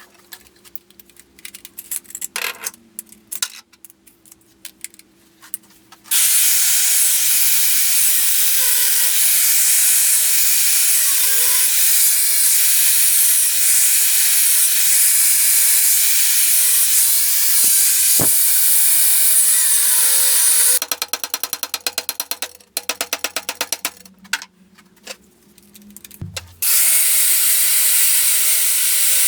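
An electric power tool runs with a loud hiss. Its motor tone sags briefly every second or two, as it does when the tool is pressed into the work. It starts about six seconds in and stops for a few seconds near the end before starting again, and fast ticking fills the gaps.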